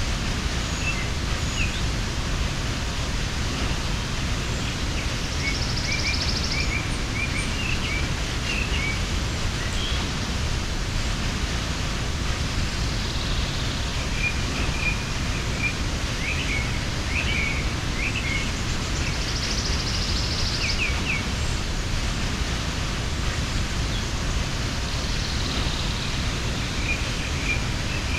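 Waterfall rushing steadily, with small birds chirping faintly over it and a short buzzing call that comes back about every seven seconds.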